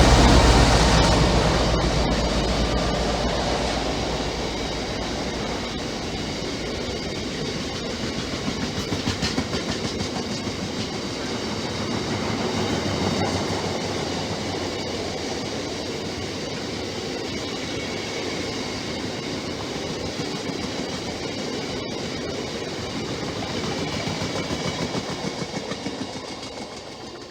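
A long train rolling past, its wagons following the already-passed locomotive: a steady rumble of wheels on the rails with rhythmic clatter that swells and eases a few times, then fades away near the end.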